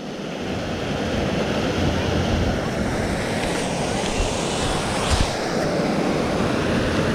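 Steady rushing noise of the river running high after rain, with wind rumbling on the microphone and a brief low bump about five seconds in.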